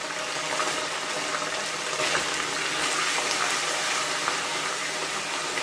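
Watery masala paste frying in hot oil in a kadai: a steady, dense sizzle with small crackles while a spatula stirs it.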